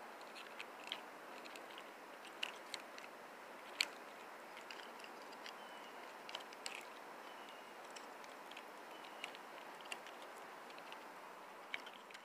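Light clicks, snaps and crackles of small parts being handled while a flatscreen TV is taken apart, scattered irregularly over a faint steady hiss; the sharpest click comes about four seconds in.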